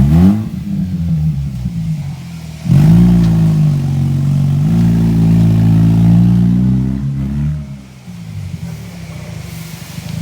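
Mazda RX-8's two-rotor Wankel rotary engine revving: a rev dies away at the start, then about three seconds in the engine is revved up sharply and held at steady high revs for about five seconds before dropping back to idle.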